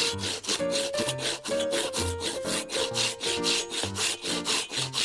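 Hand saw cutting through a thick log, fast back-and-forth strokes at about four to five a second, with background music.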